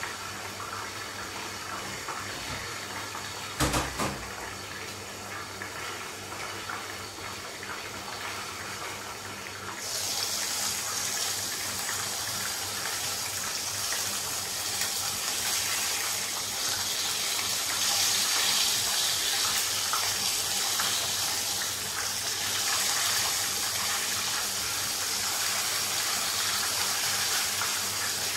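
Chicken pieces frying in oil in a covered pan: a steady sizzle, with one sharp knock about four seconds in. About ten seconds in, with the lid lifted off, the sizzle turns much louder and hissier and stays that way while the pieces, nearly done and golden brown, are turned with tongs.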